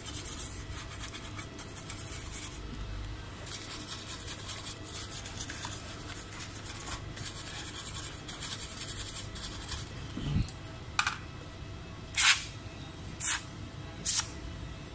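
Steady scratching and rubbing on the laptop's circuit board, then four short separate scrubbing strokes in the last few seconds.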